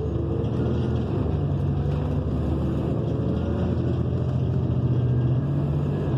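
Interior of a 2014 New Flyer XN40 natural-gas transit bus under way: its Cummins Westport ISL G engine runs with a steady low drone, mixed with road noise, the drone easing briefly midway and then returning.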